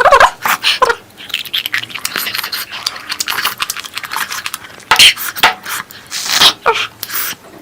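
Close-miked eating sounds: wet chewing and lip smacking in quick irregular bursts, with a few louder bursts about five and six and a half seconds in.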